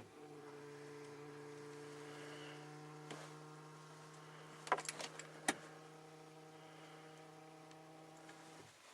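Electric in-tank fuel pump of a Hyundai Santa Fe 2.0 CRDi diesel running with a faint, steady hum, with a few light clicks in between, then cutting off suddenly near the end. It is working "terribly heavily", which the owner takes for a fault in the pump behind the engine's failure to start.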